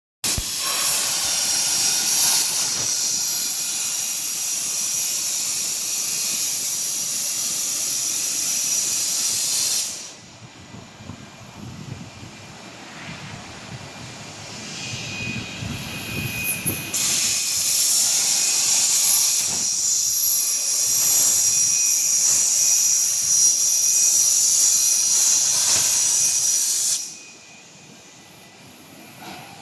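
Hypertherm XPR300 plasma torch cutting steel plate: a loud, high-pitched hiss with a steady whistling tone. The hiss drops away about ten seconds in, returns about seven seconds later, and stops again near the end.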